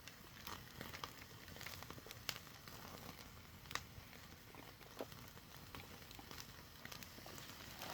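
Faint crackling of a wood fire: scattered sharp pops and ticks over a low hiss.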